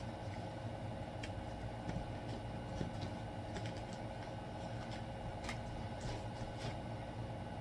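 Tarot deck being shuffled and a card drawn by hand: faint, irregular card clicks and flicks over a steady low hum.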